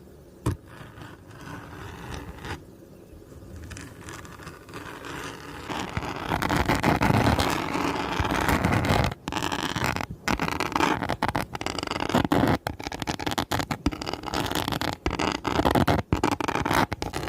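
Scratching on a glitter-covered flower, a dense rasping scrape that grows louder about six seconds in and breaks off briefly now and then, with a single sharp tap about half a second in.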